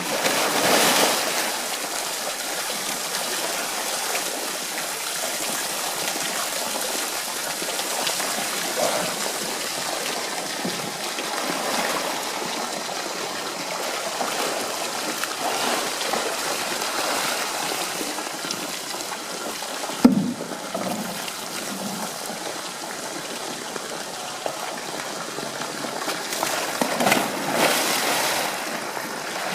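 Steady rush of running water, with a single short knock about twenty seconds in.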